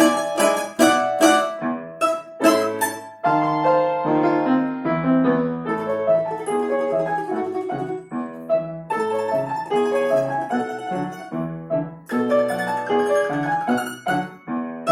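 A plucked string instrument and piano playing a lively piece together. Crisp plucked notes stand out over the first three seconds, after which the piano's sustained chords and melody come to the fore.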